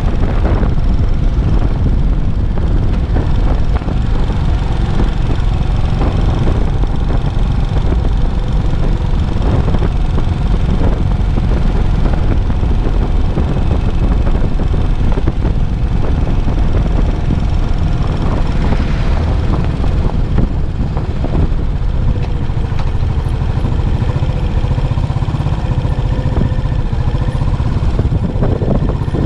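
Yamaha SR400's air-cooled single-cylinder four-stroke engine running through its stock muffler as the motorcycle is ridden, a steady low rumble.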